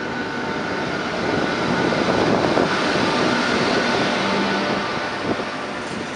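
SNCF BB 26000 electric locomotive and its Corail coaches rolling past: a steady rumble of wheels on rail with a faint steady whine, swelling about two seconds in and easing off, with a single clack near the end.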